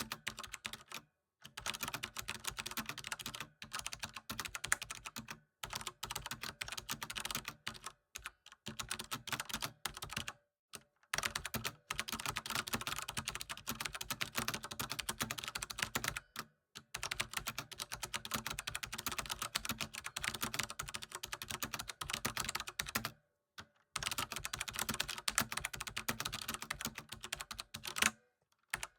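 Steady typing on a computer keyboard: rapid key clicks in runs of a few seconds, broken by brief pauses.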